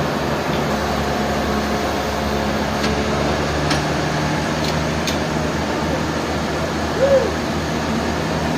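Sawmill machinery running steadily with an even hum, a few faint clicks, and a short rising-and-falling squeak about seven seconds in.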